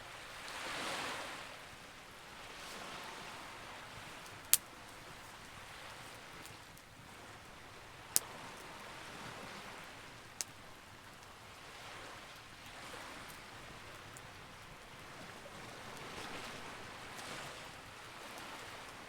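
Campfire with three sharp pops, the first two the loudest, over soft sea waves washing in and receding every few seconds, the biggest wash about a second in.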